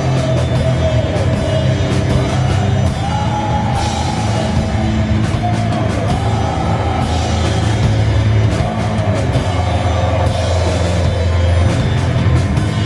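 Heavy metal band playing live: distorted guitars and bass held loud and dense, with drums and crashing cymbals.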